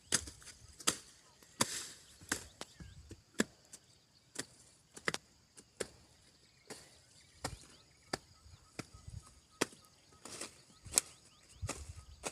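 A series of irregular sharp taps or knocks, roughly one every half second to a second, over a faint steady high hiss.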